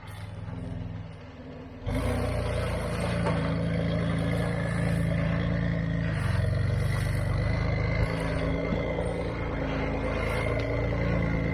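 Off-road 4x4's engine running quietly, then about two seconds in a much louder engine running steadily, with a thin high whine over it.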